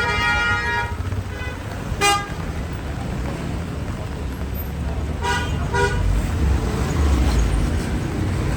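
Vehicle horns honking in street traffic: a long honk at the start, a short beep about two seconds in, and two quick toots about five seconds in, over the steady low rumble of engines.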